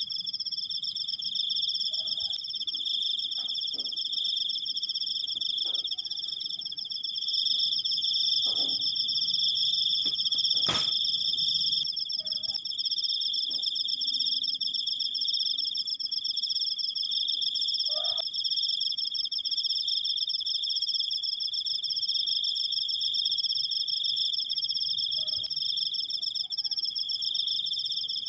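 Crickets (jangkrik) trilling in long unbroken trills, two steady high-pitched trills at different pitches sounding together. A single sharp click comes about eleven seconds in, and a few faint short calls sound lower down.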